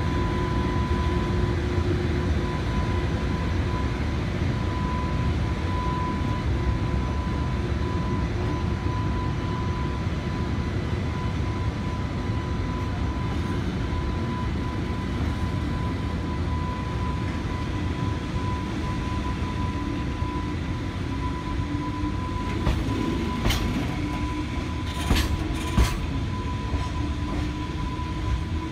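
Container freight train's wagons rolling slowly past, a steady rumble of wheels on rail with a few sharp clanks near the end.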